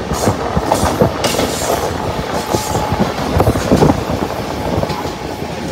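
Two trains running side by side on parallel tracks, heard from aboard one of them: a steady rumble of wheels on rail with a dense run of short knocks and clatter as an electric-hauled express passes close alongside.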